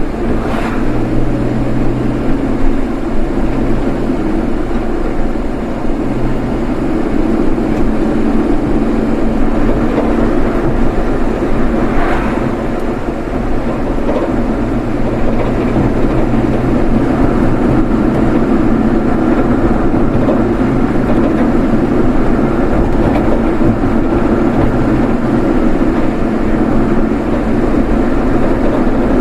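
Steady engine and road noise of a moving vehicle, heard from on board, with an occasional brief knock.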